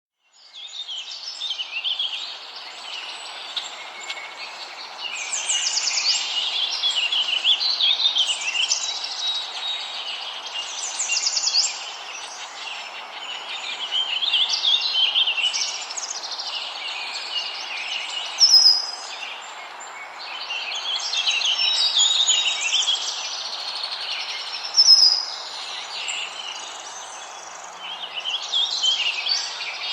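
Warbler song: fast, high chirping phrases repeated every few seconds, with two sharper, louder notes in the second half. A steady hiss of background noise runs underneath.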